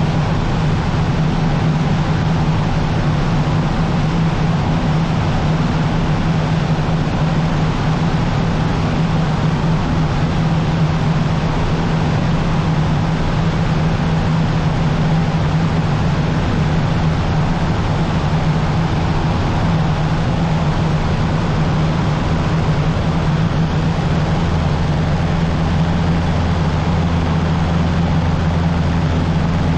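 Cessna 150's Continental O-200 four-cylinder engine and propeller droning steadily in flight. A deeper hum grows stronger about 25 seconds in.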